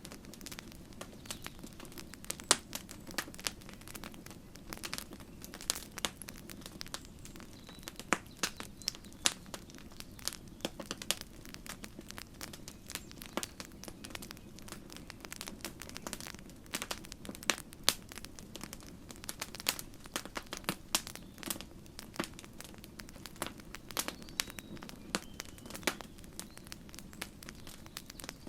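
Wood campfire crackling, with sharp irregular pops and snaps over a low steady hiss of the burning fire.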